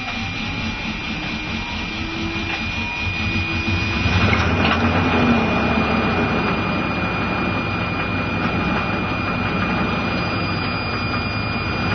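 Suburban diesel engine running just after a cold start on 100% vegetable oil, a steady clatter that picks up about four seconds in and holds at a fast warm-up idle.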